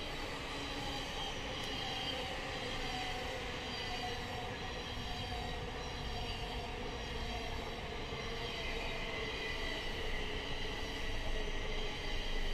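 Train running on the rails: a steady rumble with a few high, steady tones held above it.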